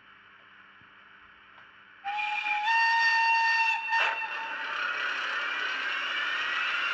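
ESU sound decoder in a Tillig TT-scale E 94 electric locomotive model, heard through its small speaker: after a couple of faint seconds the locomotive's whistle sounds for under two seconds, then a short sharp noise, and then the running sound, a steady hiss with a slowly rising whine as the loco gets under way.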